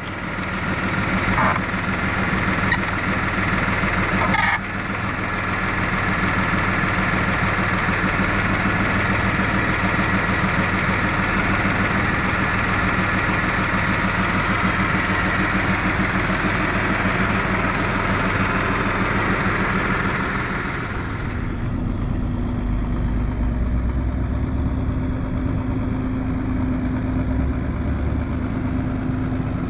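Tractor engine running steadily with a thin high whine, with a couple of knocks in the first few seconds. About 21 seconds in the sound changes: the higher part falls away and a deeper rumble takes over.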